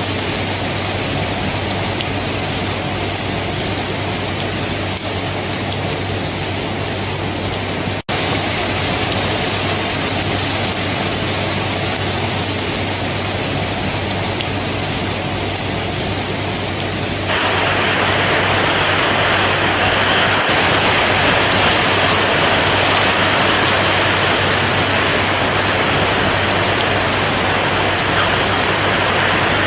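Steady heavy rain hiss over a low steady hum, broken by a split-second dropout about eight seconds in. About seventeen seconds in, the sound jumps abruptly louder and hissier, as a different rain recording is spliced in.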